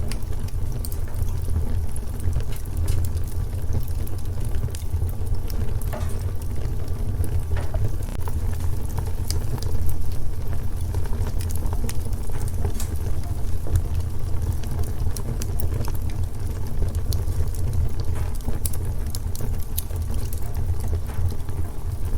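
Wood fire crackling in a fireplace: irregular sharp pops and snaps over a steady low rumble, with one louder pop about ten seconds in.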